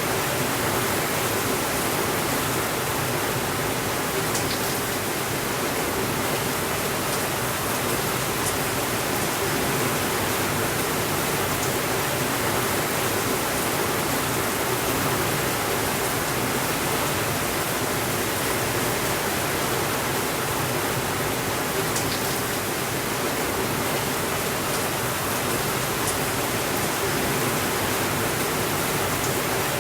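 Steady rainfall, an even hiss with a few faint ticks.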